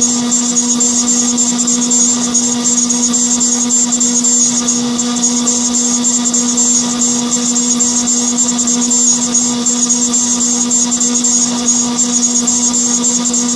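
Machine-tool spindle running at a constant speed while machining a gantry leg plate. It gives a steady hum of one unchanging pitch with a constant high hiss from the cutting.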